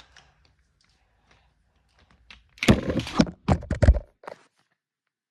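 Toy monster truck clattering down, a burst of thuds and knocks about halfway through, with three or four separate bumps after it as it tumbles to rest.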